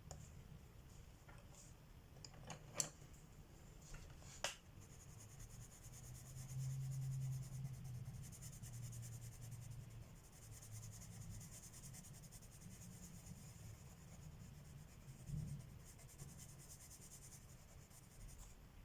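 Colored pencil rubbing on paper in a faint, continuous high scratching as an area is shaded in. Two short sharp clicks come about three and four and a half seconds in.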